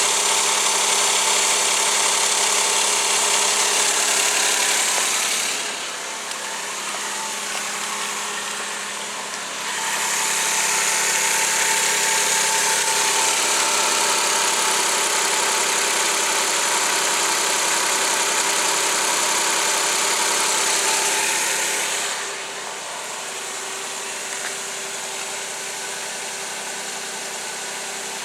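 Suzuki K6A 660 cc three-cylinder engine running steadily. It is louder and hissier at first, drops back quieter about six seconds in, rises again about four seconds later, and settles quieter again for the last third.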